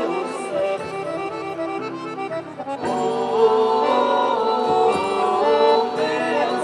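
Accordion-led quadrilha junina music playing, with sustained held chords; the music thins briefly and then comes back fuller and louder about three seconds in.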